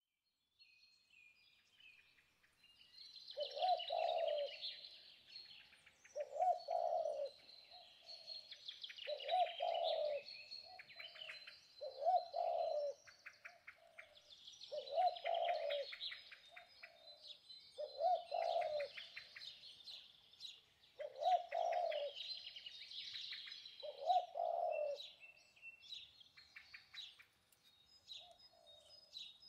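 Birds calling: a low call repeats about every three seconds over busy high chirping and twittering from smaller birds. The birds fade in over the first few seconds.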